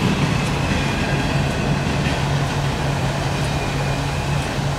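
Empty freight cars rolling past on the rails, a steady rumble with a steady low hum under it.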